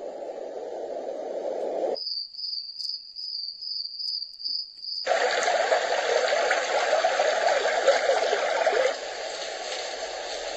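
A Dreamegg Pocket Sleep 1 mini white noise machine switches between its built-in sounds. First comes a rushing noise, then about three seconds of a high chirp pulsing a few times a second. About five seconds in, a louder full rushing noise starts, and it settles to a steadier level near the end.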